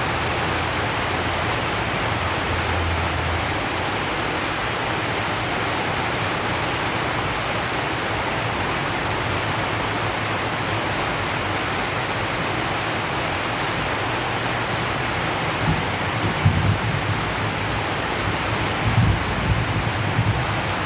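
Steady heavy rain drumming on a zinc sheet roof, an even hiss of drops. In the last few seconds a few brief low rumbles rise above it.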